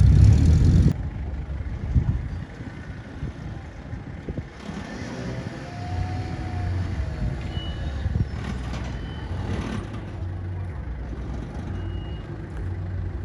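A car engine running loudly that drops away suddenly about a second in. After that a lower, uneven engine rumble goes on, with a few short high beeps.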